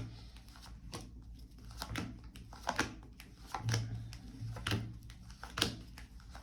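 Tarot cards being handled on a table: a run of irregular light clicks and taps, several a second.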